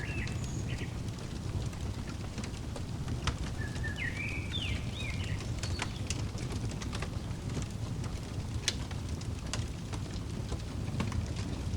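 Fireplace burning with a low steady rumble and scattered sharp crackles and pops. A bird chirps briefly near the start and again in a short run of calls around four to five seconds in.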